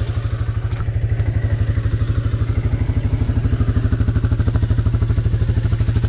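An off-road vehicle's engine running steadily with an even, fast low throb, getting slightly louder about a second and a half in.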